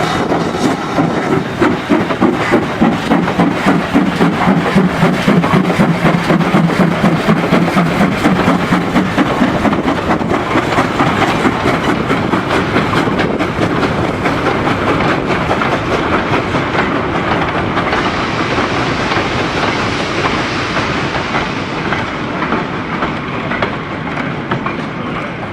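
Steam locomotive passing with its train. A quick regular beat sounds for the first several seconds, then the carriage wheels rumble and clickety-clack over the rail joints as the coaches roll by, slowly fading.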